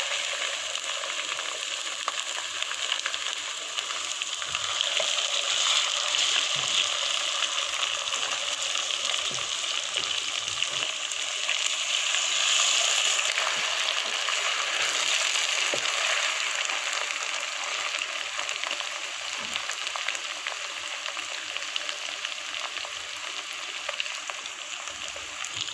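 Sliced onions and ginger-garlic paste frying in hot ghee with a steady sizzle, with faint scrapes and knocks of a wooden spoon stirring them.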